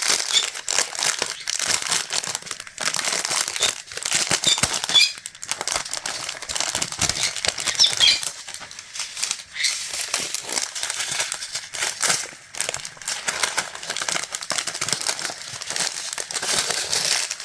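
Small plastic baggies of diamond painting drills being handled, crinkling and rustling continuously.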